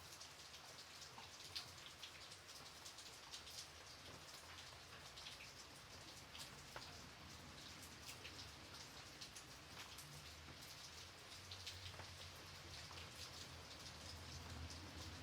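Gentle rain falling steadily, with many separate drops pattering on a surface and a faint low rumble underneath.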